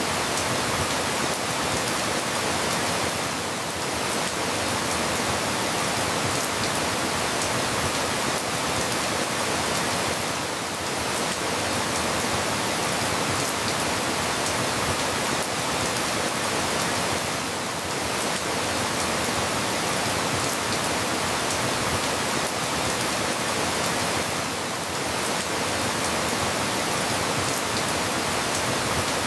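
Steady, continuous rainfall, an even hiss of falling rain with no distinct drops or thunder standing out.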